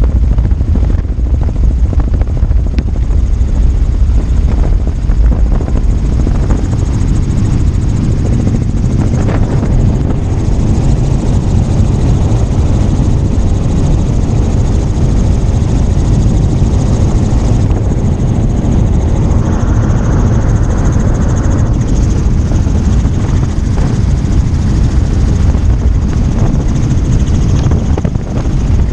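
Helicopter in flight: loud, steady rotor and engine noise, heaviest in the low rumble, with a faint high whine running through it.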